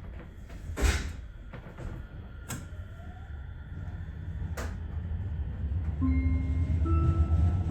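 Electric train pulling away and gathering speed: a low running rumble grows steadily louder, with a few sharp knocks early on. Near the end the traction motors' whine sets in as steady tones that step up in pitch.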